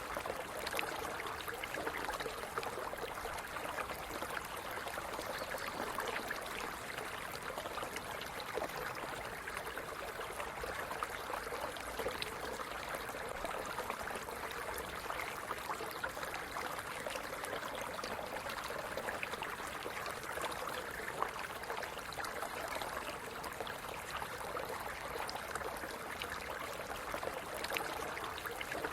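Small stream running over stones, a steady trickling and gurgling of water with no pauses.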